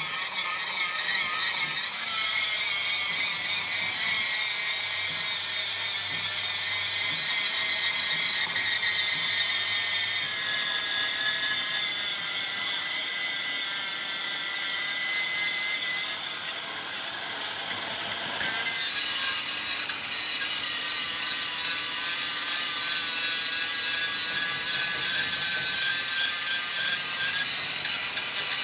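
Power tool working on the truck body, running with a high whine whose pitch shifts in steps as the load changes, easing off briefly about two-thirds of the way through.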